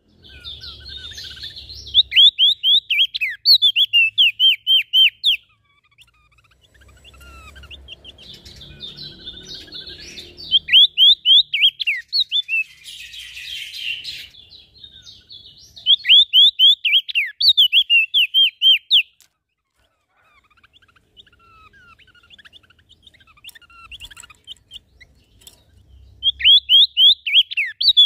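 Small songbirds singing. Bursts of rapid, high, down-slurred chirps, each lasting about three seconds, come back several times between softer twittering.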